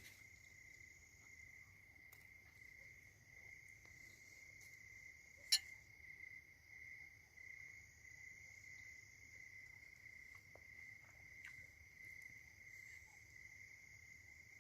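Crickets trilling steadily in a continuous high, faint chorus, with a single sharp click about five and a half seconds in.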